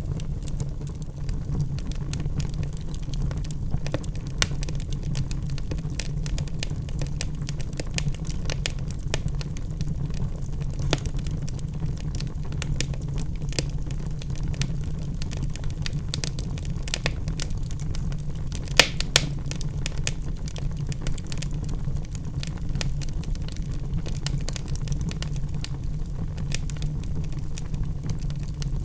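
Wood fire in a fireplace burning steadily with a low, even rumble and frequent irregular crackles and pops from the logs, two sharper pops about two-thirds of the way through.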